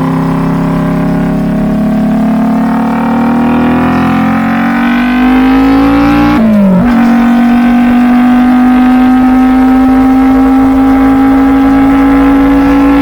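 Kawasaki Vulcan S 650 parallel-twin engine running through an aftermarket Truedual Valero twin-pipe exhaust, revs climbing under acceleration. A quick upshift comes about six seconds in, then the engine runs steadily at cruising speed.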